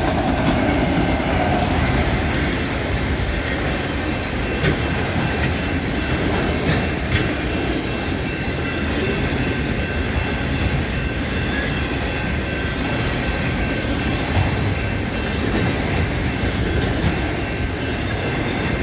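CN freight train M397's cars rolling past at track level: steady rumble of wheels on rail with scattered clicks and clacks over the joints and a faint steady high tone.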